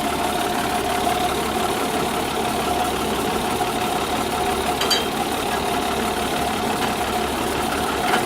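A fire truck's engine and pump running steadily under a constant hiss, with a steady mid-pitched whine.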